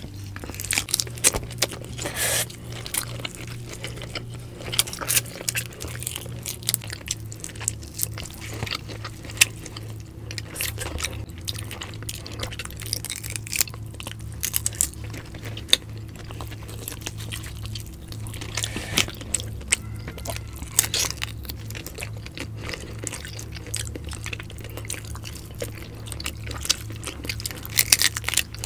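Close-miked eating sounds: chewing and crunching of whole shrimp and fish eaten by hand, with many scattered sharp clicks and smacks. A steady low hum runs underneath.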